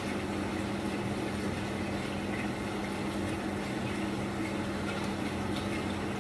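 Spam and egg frying in oil in a pan on a gas hob, sizzling steadily, with a steady low hum underneath.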